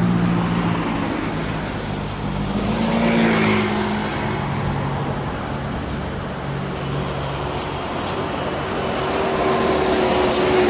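Heavily loaded diesel truck engine working hard on a climb, its pitch shifting as the revs change, with a few short ticks in the second half.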